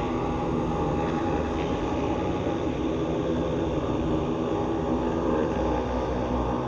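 Electronic music drone: a steady, dense rumbling texture of many sustained low tones over a noisy hiss, with no beat and no pauses.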